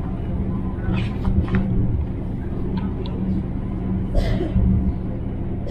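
DB ICE 3 high-speed train running, heard inside the dining car as a steady low rumble with a hum. Paper menu pages are turned and rustle about a second in and again about four seconds in.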